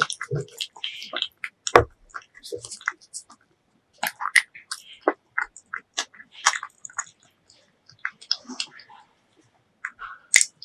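Close-miked chewing and biting of braised pork leg: irregular wet smacks and sticky clicks of the mouth, with a couple of brief pauses.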